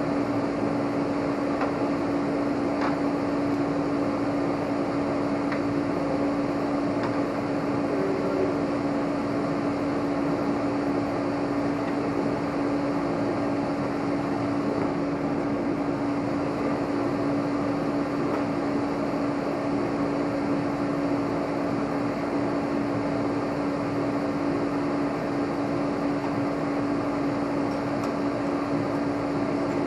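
Steady, unbroken machine hum with one strong constant tone, like a small electric motor running, with a few faint clicks in the first several seconds.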